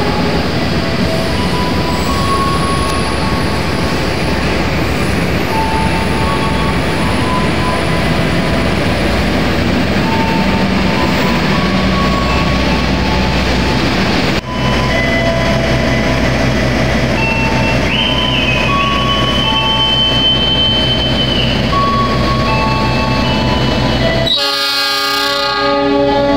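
Trains running through a station: a steady rush of wheels on rail, with a high squeal lasting about three seconds midway. Near the end a train horn sounds, a chord of several notes.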